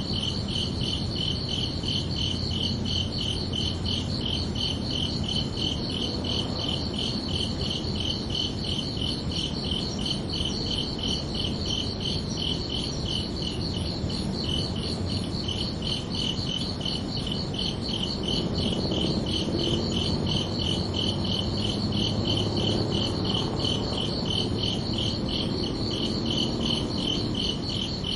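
Crickets chirping: an unbroken, evenly pulsed high trill over a low background rumble, which grows a little louder in the second half.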